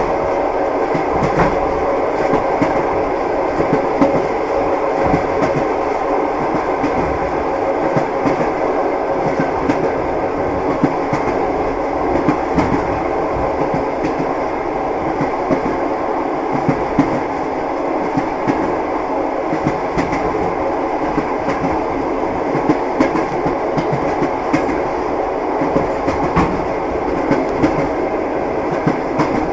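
Passenger train carriage rolling along the track, heard from inside the car: a steady rumble with the wheels knocking over rail joints now and then.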